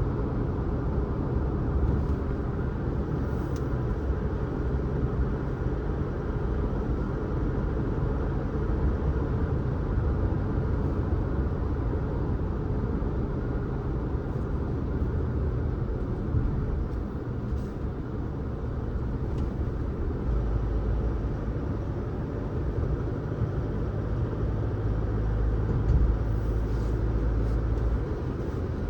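Steady road and engine noise of a car being driven, a low rumble that grows heavier for several seconds near the end.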